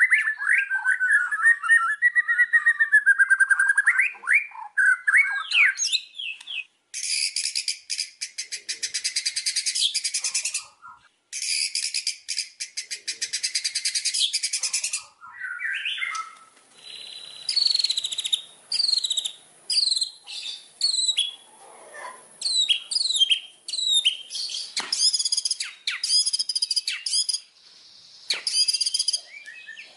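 White-rumped shama (murai batu) singing a varied song, played as a lure recording to get captive shamas singing. Warbling whistled phrases come first, then two long, fast buzzing trills in the middle, then a run of short sweeping whistles.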